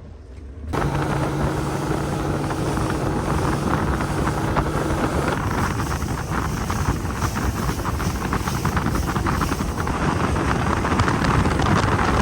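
Boat motor running at speed, with wind rushing over the microphone. It starts abruptly about a second in, with a steady low engine hum through the first few seconds.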